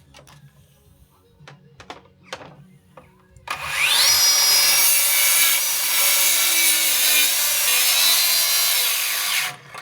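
HiKOKI 36V cordless track saw: a few light knocks, then about three and a half seconds in the motor starts with a rising whine and the blade cuts through wood for about six seconds before stopping just before the end.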